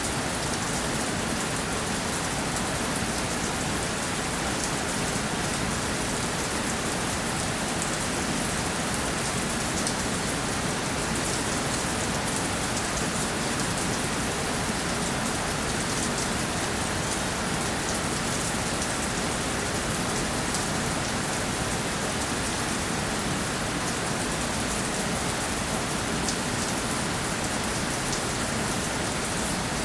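Steady rainfall: a dense, even hiss of rain landing on a surface, with fine drop patter throughout.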